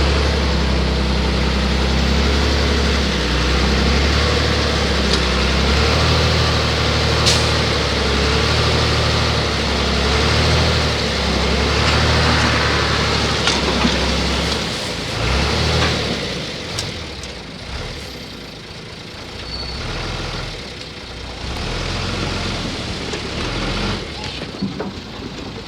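Heavy diesel earthmoving machinery running close by: a loud, steady engine sound for about fifteen seconds, then quieter and uneven, with a few sharp knocks.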